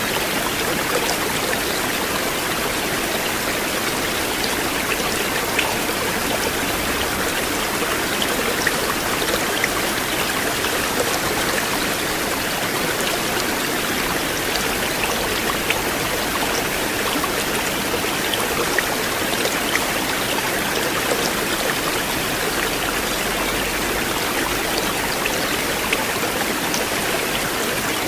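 River water flowing in a steady, even rush, with scattered small splashes and drips throughout.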